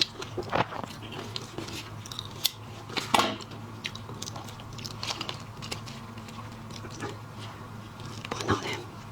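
Close-miked eating of shrimp and shellfish: chewing and crunching, with scattered small clicks and louder cracks about three seconds in and again near the end, over a low steady hum.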